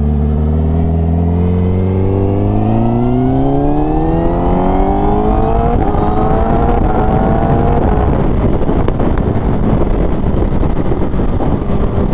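Honda CBR1000RR-R Fireblade SP's inline-four engine through an SC Project exhaust, accelerating hard: the engine note climbs steadily, drops with a quick-shifter upshift about six seconds in and climbs again. From about eight seconds in, a steady rush of wind takes over from the engine.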